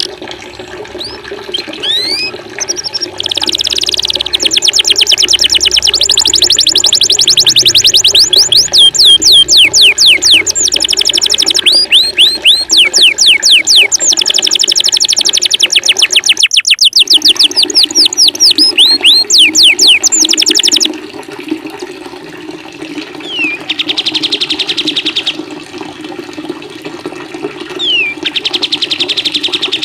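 Songbirds singing fast, loud trills of rapidly repeated falling notes over a steady sound of running water; the trills stop suddenly about 21 seconds in, leaving the water with two shorter, quieter bursts of song near the end.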